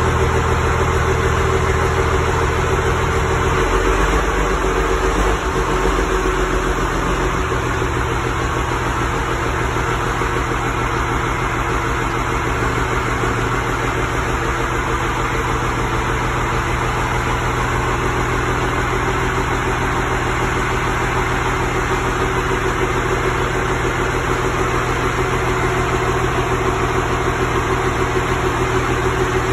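Monster truck engine idling steadily, its low note shifting for a few seconds about four seconds in.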